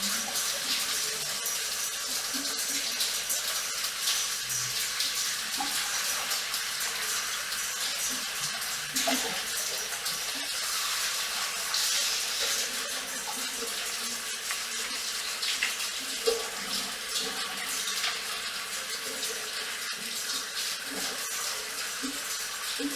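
Water running from a salon shampoo-basin tap or sprayer as hair is washed and rinsed, over the steady patter of rain on a metal roof.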